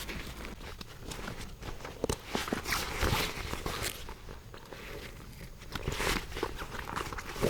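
Footsteps and rustling, with scattered light knocks and crackles at an uneven pace.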